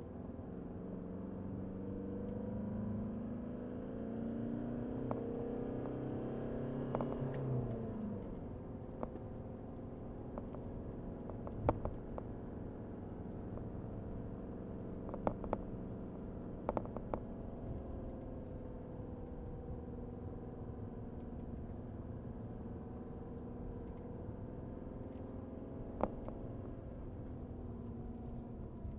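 Mercedes-Benz W124 200D's four-cylinder diesel engine heard from inside the cabin while driving. The revs rise steadily for the first seven seconds or so and drop suddenly about eight seconds in, then it runs fairly steadily. A few short sharp knocks come now and then.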